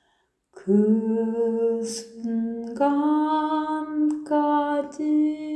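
A single voice singing slowly without accompaniment, holding long notes that step up and down, after a short pause at the start.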